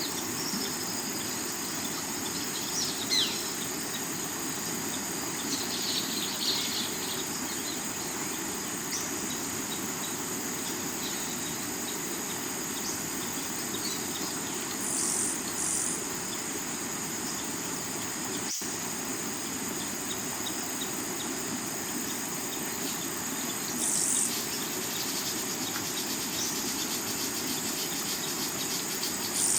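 Steady rush of a rocky river under a continuous high trilling of crickets and other insects, with a few bird chirps in the first several seconds and short higher insect bursts later on. A split-second dropout in the sound comes about two-thirds of the way through.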